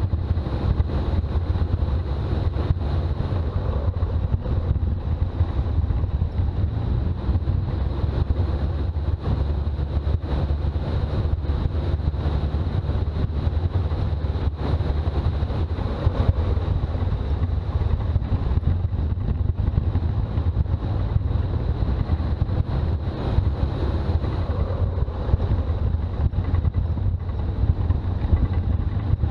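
Toyota BJ40 Land Cruiser on the move, a steady low engine and road drone with no change in pace.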